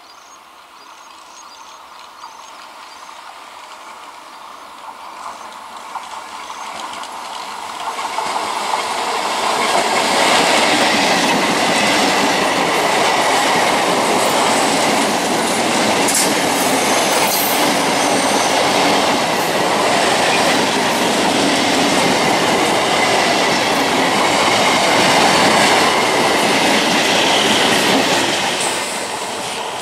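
Electric multiple unit local train approaching, growing steadily louder over about ten seconds, then running close past with its wheels loud on the track. The sound begins to fall away near the end.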